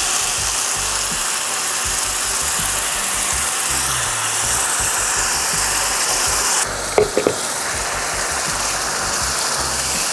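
Blended chili-and-shallot spice paste sizzling steadily as it is poured into hot oil in a nonstick frying pan to be sautéed; the hiss eases a little about two-thirds of the way through.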